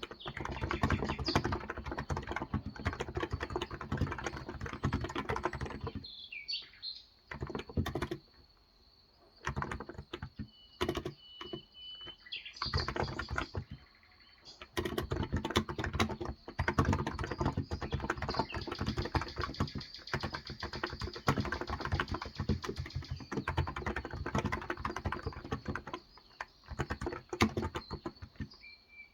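Fast typing on a COX Endeavour electro-capacitive (Topre-style) 35 g tenkeyless keyboard: rapid runs of keystrokes with pauses about 6 seconds in and again briefly a few times. Birds chirp in the background, most noticeable during the pauses.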